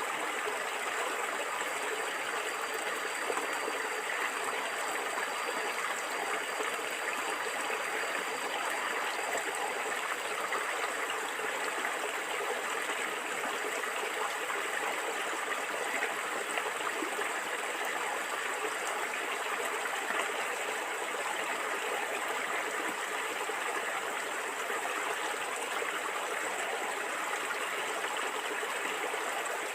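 Water flowing and gurgling in a stream, a steady even rush with no breaks.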